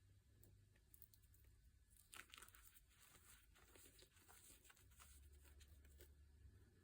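Near silence with faint crinkling and crackling, strongest a couple of seconds in.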